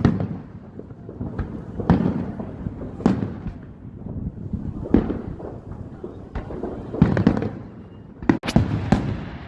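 Aerial fireworks bursting overhead: single sharp booms every second or two with a low rolling rumble between them, and a quick cluster of bangs near the end.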